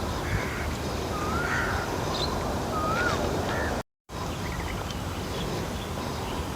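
Steady outdoor background noise with a bird calling twice, each call a short swooping note about a second and a half apart. The sound cuts out completely for a moment about four seconds in.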